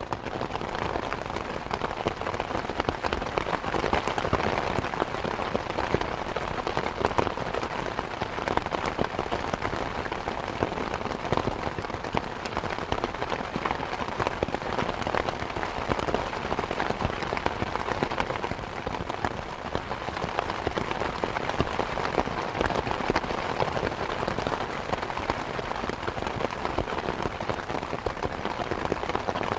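Steady rain falling, a dense even patter of drops on surfaces with no change in strength.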